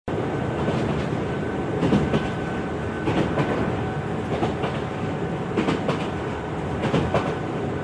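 Train running along the track, a steady rumble with the clickety-clack of the wheels knocking over rail joints about once a second.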